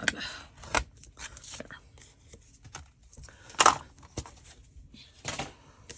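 Paper and card being handled and arranged: short rustles, taps and scrapes, the loudest about three and a half seconds in and another a little past five seconds.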